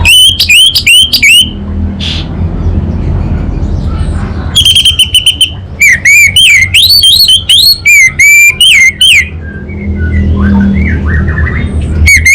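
Orange-headed thrush singing loud, whistled phrases of quick up-and-down sliding notes in several bursts with short pauses between them, over a steady low hum.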